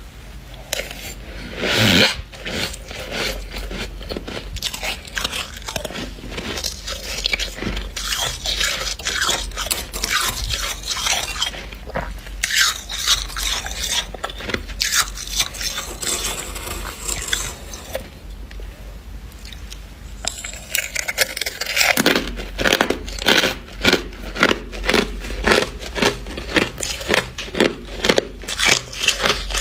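Dry deep-freezer frost being bitten and chewed, with dense crunching throughout. In the last several seconds the chewing settles into a steady rhythm of about three crunches every two seconds.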